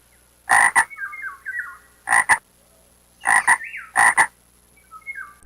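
A frog croaking: four loud double croaks, each made of two quick pulses, spaced about a second or more apart. Fainter short, higher calls come between them.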